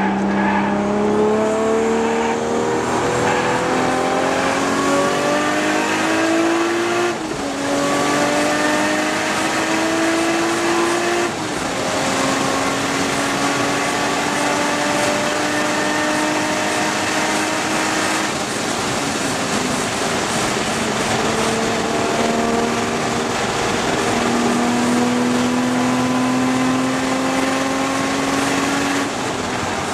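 Toyota Supra MKIV's 2JZ-GTE turbocharged inline-six heard from inside the cabin under hard track driving: revs climb, drop sharply at an upshift about seven seconds in and again about four seconds later, pull long and steady, fall away about two-thirds through, then climb again in further pulls. Road and wind noise run underneath.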